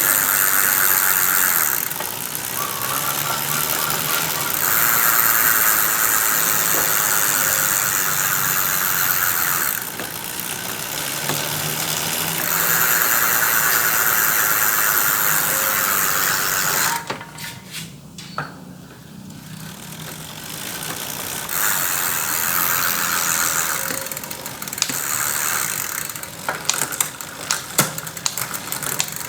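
Bicycle rear wheel driven by turning the pedals in spells of several seconds, the chain and a freshly refitted freewheel sprocket running smoothly without rough grinding. Freewheel pawls tick as the wheel coasts near the end.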